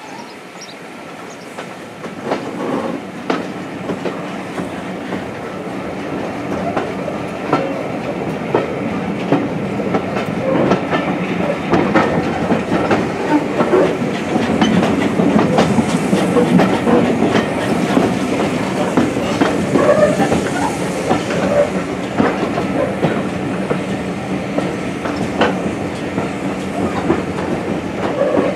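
Passenger train heard from a carriage window as it pulls away and gathers speed, its wheels clicking and clattering over rail joints and pointwork. The running noise grows louder over the first half, then holds steady.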